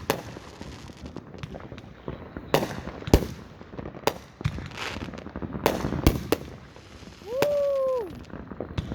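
Consumer fireworks going off close by: a scattered string of sharp bangs and crackles. Near the end a drawn-out tone rises, holds and falls for about a second.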